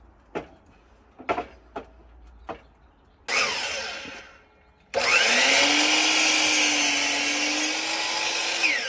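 Electric power saw cutting lumber: a few knocks as the wood is handled, a short trigger burst that winds down, then a longer cut of about four seconds, the motor spinning up at the start and winding down at the end.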